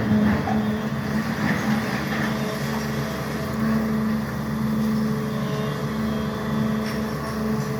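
SANY excavator's diesel engine running steadily under work, a constant drone with a steady hum.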